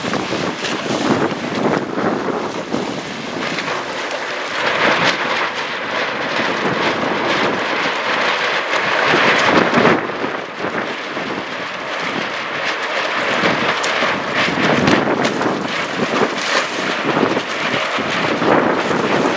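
Wind buffeting the microphone aboard a sailboat under way: a loud rushing noise that swells and eases.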